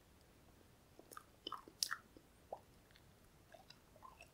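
Faint chewing of a fresh chili pepper: a scatter of soft crunches and wet mouth clicks, busiest about a second in, then a few small clicks near the end.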